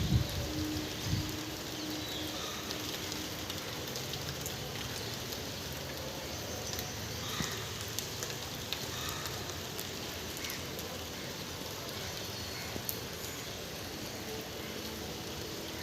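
Steady rain falling: a continuous hiss with scattered sharp drop ticks. There are a few low thumps in the first second or so.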